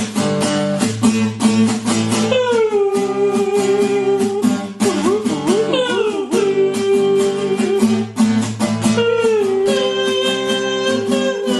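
Guitar music: a strummed acoustic guitar rhythm under a lead melody of long held notes, each sliding down into place, about three times.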